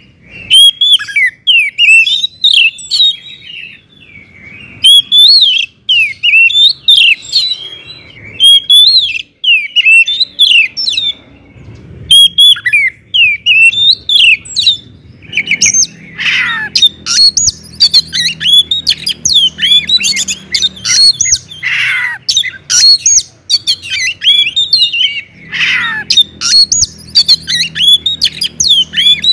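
Oriental magpie-robin singing loudly and continuously: rapid runs of varied high whistles and chirps in phrases, broken by brief pauses. From about halfway, long down-slurred notes are mixed in with the song.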